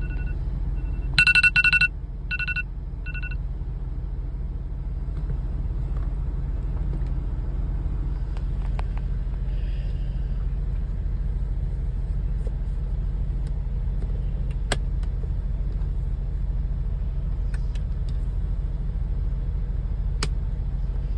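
Semi truck's diesel engine idling, a steady low rumble heard inside the cab. Over the first three seconds or so an electronic beeper sounds a series of short high beeps.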